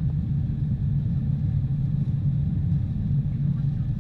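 Steady, unchanging low rumble of a Boeing 747-400 jetliner.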